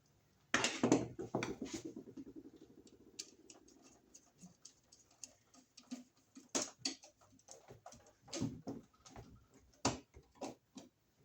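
Scattered small clicks, taps and scrapes of hand wiring work on a GFCI receptacle, as the stripped white wire is seated in the load terminal and secured. The clicks are denser near the start, with a faint hum that fades out a few seconds in.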